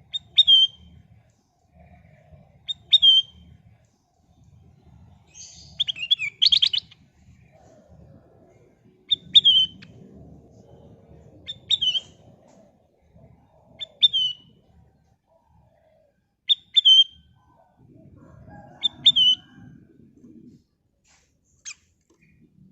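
Kutilang emas bulbul calling: short, sharp, down-slurred notes repeated about every two to three seconds, with one longer, fuller phrase about six seconds in. A faint low rumble sits underneath.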